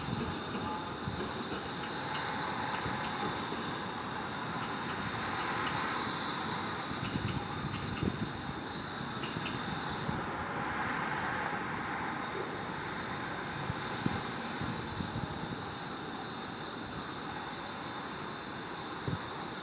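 Steady city traffic noise heard from an apartment: a continuous low rumble with vehicles swelling past every few seconds and a few scattered knocks.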